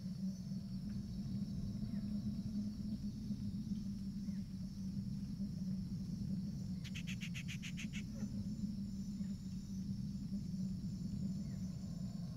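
Misty forest ambience: a steady low hum under a high, even insect drone, with a few faint bird chirps. About seven seconds in comes one rapid clicking trill, roughly eight pulses in about a second.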